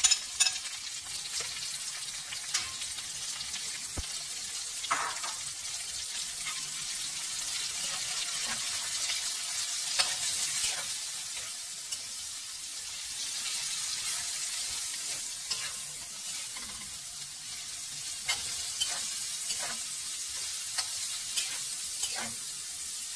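Diced pork sizzling as it stir-fries in hot rendered pork fat with garlic and onion in a metal wok. A metal spatula scrapes and clicks against the pan now and then, and the meat is tipped in with a clatter at the very start.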